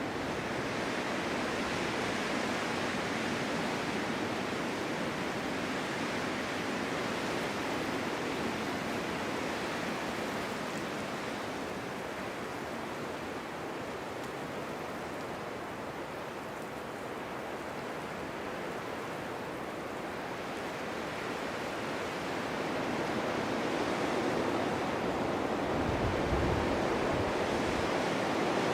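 Winter snowstorm wind blowing steadily in a continuous rush of noise, easing off in the middle and building again near the end, with a brief low rumble of a gust.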